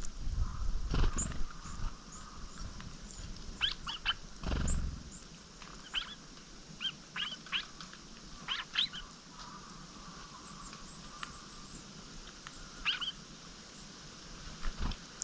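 Small songbirds giving short, sharp chirping calls in scattered clusters, with a few low thumps in the first second and about four and a half seconds in.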